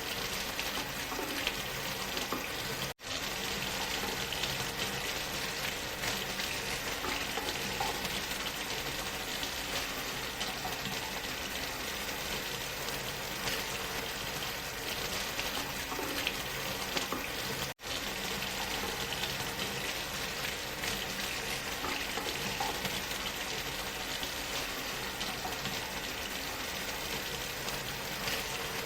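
Waterfall rushing: a steady, dense hiss of falling water, blended with white noise. It cuts out for an instant twice, about three seconds in and again about eighteen seconds in.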